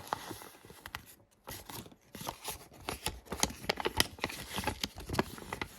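Toy packaging being handled and opened out by hand: crinkling and rustling in a string of short, irregular clicks.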